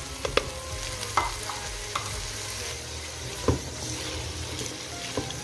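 Calabresa sausage, tomato, corn, peas and olives sizzling in a stainless steel pot as a spatula stirs them, with a few sharp knocks of the spatula against the pot.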